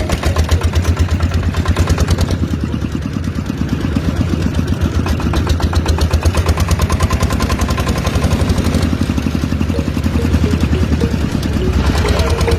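Engine running steadily at idle with a rapid, even chugging beat, somewhat louder near the end.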